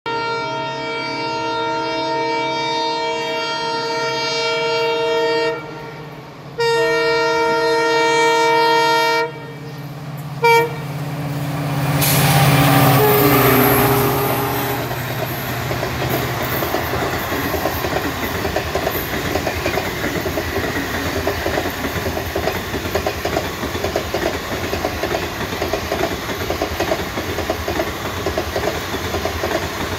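WDP4D diesel locomotive sounding its horn in two long blasts and a short one as it approaches. Its two-stroke EMD diesel engine then swells past. After that comes the rhythmic clickety-clack of ICF coach wheels over the rail joints as the express runs through at speed.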